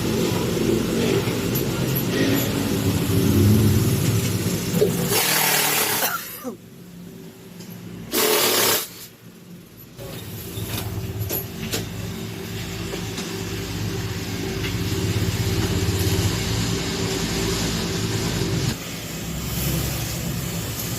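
A motor running steadily with a low hum, broken by two short loud bursts of hissing noise about six and eight seconds in.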